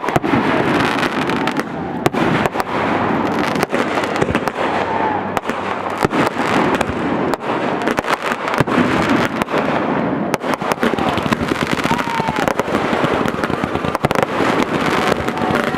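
Fireworks display going off without a break: many bangs and crackles in quick succession over a continuous rumble.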